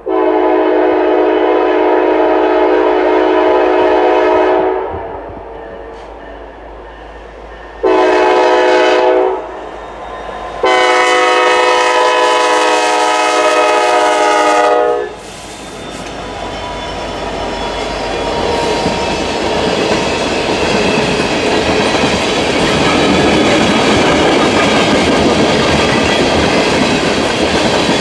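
Norfolk Southern diesel locomotive's air horn sounding three blasts, long, short, long, as it approaches a road grade crossing. After the horn the freight train passes close by with a rising rumble and the clickety-clack of tank-car wheels over the rail joints.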